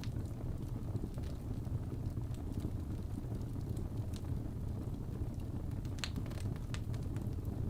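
Fireplace fire burning: a steady low noise of flames with scattered sharp crackles and pops, several of them close together about six seconds in.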